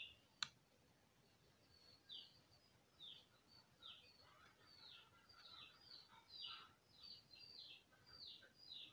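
Faint bird chirping: short, repeated descending chirps that come closer together in the second half. A single sharp click just after the start.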